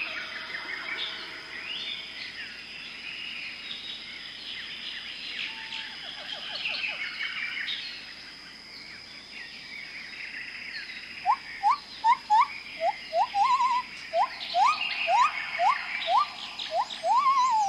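Amazon rainforest animal chorus: many birds chirping and whistling over a steady high-pitched hum. About two-thirds of the way in, a loud series of rising whistled notes starts, about two a second, ending on a falling note.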